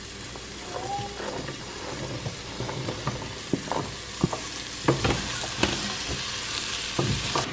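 Onions and spices frying in olive oil in a pot, sizzling steadily, while sliced carrots are pushed off a plastic cutting board into it with a wooden spoon. The spoon and carrot slices knock and scrape against the pot, more often in the second half as the carrots are stirred in.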